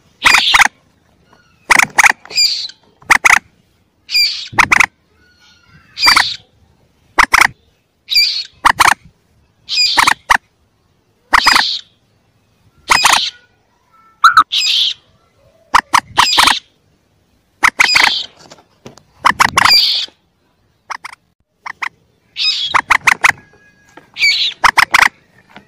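Young common moorhen calls played as a hunters' lure: short, sharp, loud calls, each a quick run of two or three notes, repeating about every second and a half.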